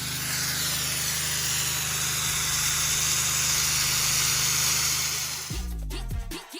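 Pressure washer running: the water jet sprays in a steady hiss over the engine's even hum. Music starts near the end and cuts in over it.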